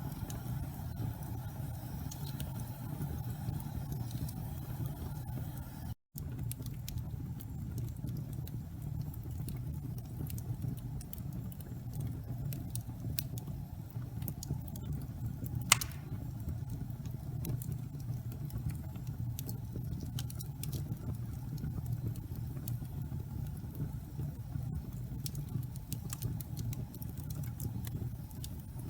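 Wood fire burning in a fireplace: a steady low rumble of flames with scattered small crackles and one sharp, loud pop about halfway through. The sound cuts out for an instant about six seconds in.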